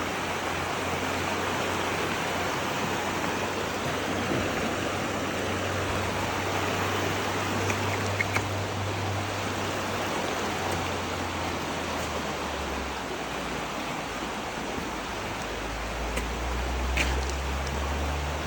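Steady hiss of rushing water, with a low rumble that swells twice and a few faint clicks.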